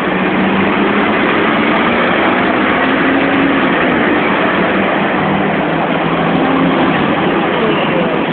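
Hong Kong double-decker electric tram running, a steady rumbling noise with a faint low hum.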